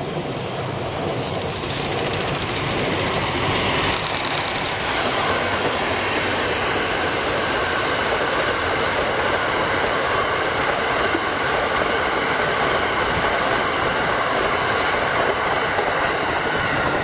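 EF81 electric locomotive and its train of E26 passenger cars passing close by. The sound builds over the first few seconds, then holds steady as the cars run past, with the clickety-clack of wheels over rail joints and faint high wheel tones.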